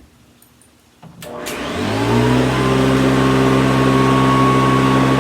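Hoover Decade 80 upright vacuum cleaner switched on with a click about a second in; its motor spins up with a rising whine, then runs loud and steady.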